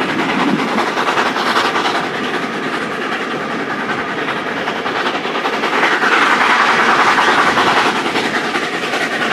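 Steam-hauled train heard from an open carriage window: carriage wheels clattering over the rail joints with the steady rush of the moving train, growing louder for a couple of seconds about two-thirds of the way through.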